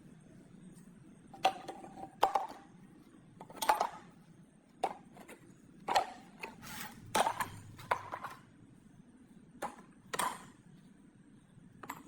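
Workshop handling noises: about a dozen irregular knocks and light clinks of metal parts and tools being picked up and set down, some ringing briefly.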